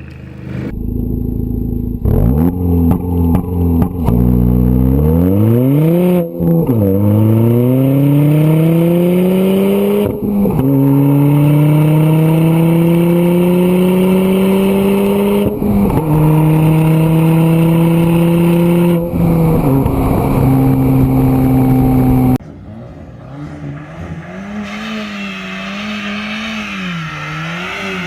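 Ford Fiesta ST MK7's 1.6-litre EcoBoost turbocharged four-cylinder accelerating hard through the gears, the engine note climbing and then dropping at each of several upshifts. Near the end the sound cuts to a quieter engine revving up and down.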